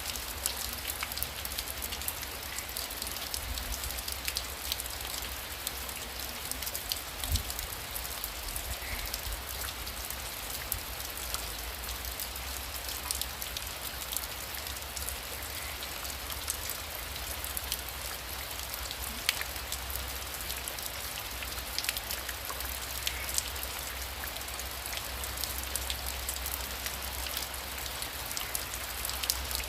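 Heavy rain falling steadily, with many sharp individual drop ticks over the hiss and a low rumble underneath.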